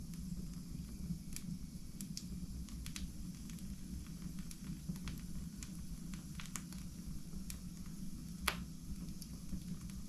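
Wood fire burning in a fireplace, crackling with scattered sharp pops over a steady low rumble, the loudest pop about eight and a half seconds in.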